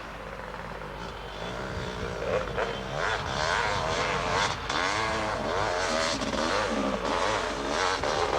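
Motocross motorcycle engines revving, their pitch repeatedly rising and falling, with more than one engine overlapping.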